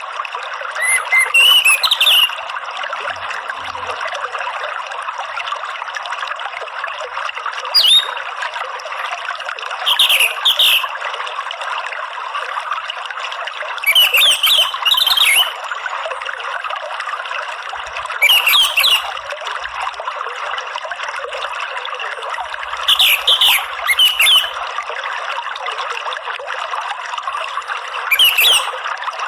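Orange-headed thrush singing short, loud, high phrases roughly every four seconds, about seven in all, over the steady rush of running water.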